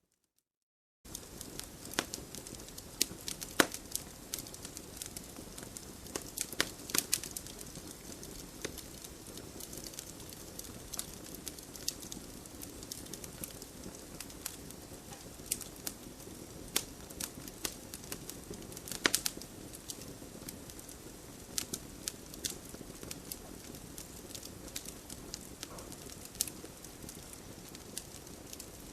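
Wood campfire crackling: a steady hiss of burning with frequent sharp pops and snaps, starting suddenly after about a second of silence.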